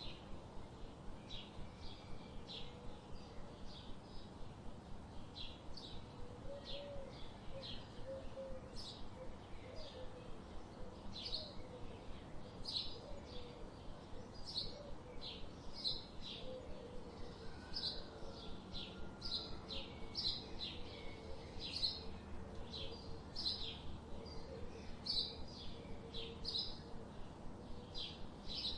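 Birds chirping in a steady stream of short high calls, two or three a second, over a low steady background hum.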